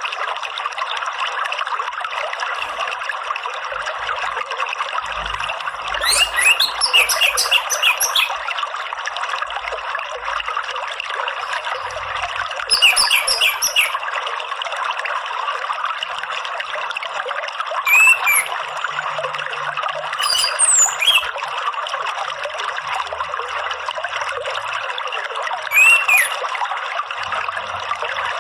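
Steady trickling water with an orange-headed thrush singing over it in short bursts: a rapid run of notes about six seconds in, then brief phrases and single down-curving whistles every few seconds.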